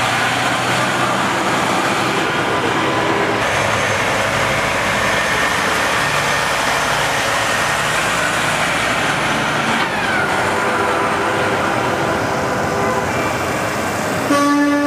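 Tractor-trailer haulers driving past with a steady rumble of diesel engines and tyres, and an air horn starting to blast near the end.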